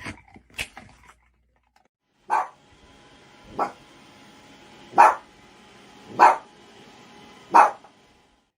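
A dog barking five times, single sharp barks evenly spaced about a second and a half apart, starting a couple of seconds in.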